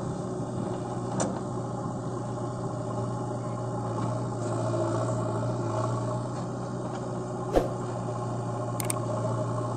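JCB 3DX backhoe loader's diesel engine running steadily, with a few short knocks, the sharpest about three-quarters of the way through.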